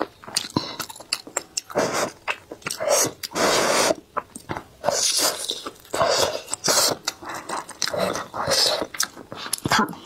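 Close-miked chewing and biting of a sausage: wet mouth sounds and smacking in repeated irregular bursts, with sharp clicks between them.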